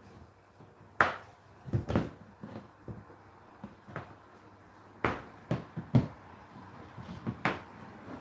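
Whirlpool WFO3P33DLXUK dishwasher running its wash, with irregular thuds and splashes of water jets striking the door and dishes over a faint steady hum.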